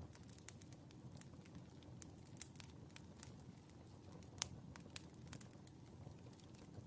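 Wood fire burning in a fireplace, crackling softly with scattered irregular pops over a low rumble of flame; one sharper pop a little past halfway.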